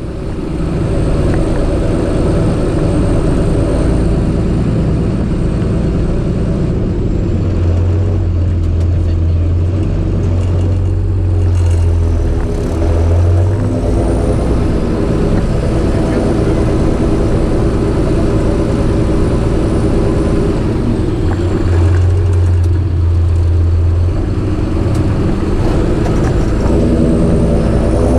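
John Deere 7430 Premium tractor's six-cylinder diesel engine running steadily under way, with a deep low drone that swells twice for several seconds and a faint high whistle that comes and goes.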